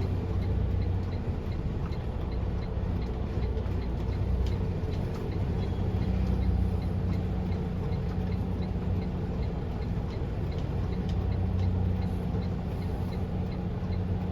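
Semi truck's diesel engine running with a steady low drone, heard from inside the cab, with a faint, evenly spaced ticking over it.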